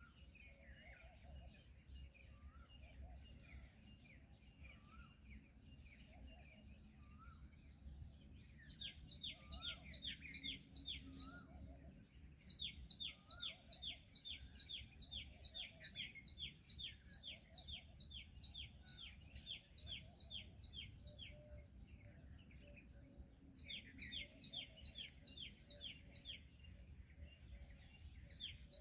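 Faint animal chirping: three long runs of quick, sharp, evenly repeated chirps, about four a second, with softer scattered calls between them.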